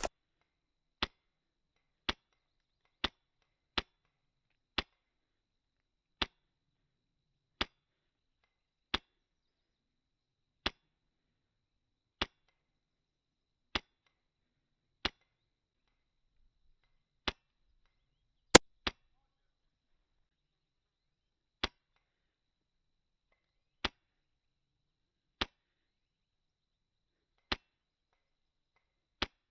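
Airsoft gun firing single shots, about twenty sharp snaps spaced one to two seconds apart, with one louder shot a little past halfway.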